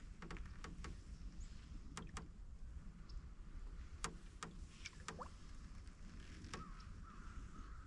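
Water dripping off a canoe paddle, about a dozen scattered sharp plinks, over a low burble of water moving past the hull.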